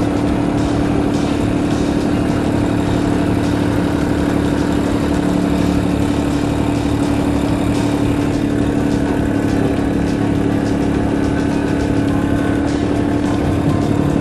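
Kubota LX2610 compact tractor's diesel engine running at a steady, even drone.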